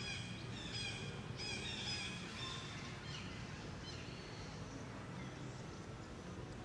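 Forest birds calling: a quick run of high, repeated chirping calls in the first three seconds, then a few fainter calls, over steady outdoor background noise.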